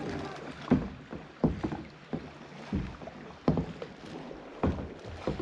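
Kayak paddle strokes: the blades dip and splash in turn, with short sharp knocks roughly once a second over a steady wash of moving water.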